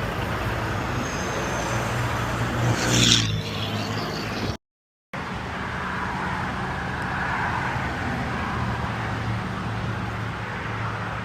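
Truck diesel engine running steadily at idle, with a short burst of hiss about three seconds in.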